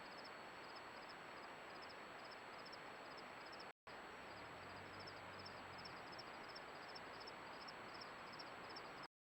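Faint outdoor night ambience: insects chirping in a steady rhythm of short high pulses, about three a second, over a constant hiss and a thin steady high whine. The sound drops out briefly near four seconds in and cuts off just before the end.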